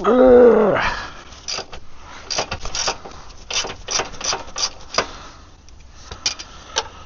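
A brief strained vocal groan, then irregular sharp metallic clicks and clinks from hand tools on the car's underside, several a second in clusters.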